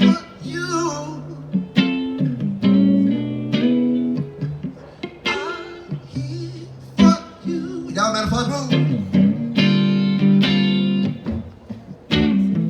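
Live guitar playing a slow instrumental passage of plucked notes and chords over held low notes.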